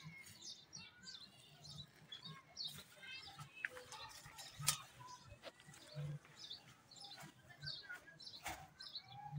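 Birds chirping on and off in short calls, with a few sharp clicks, the loudest about halfway through.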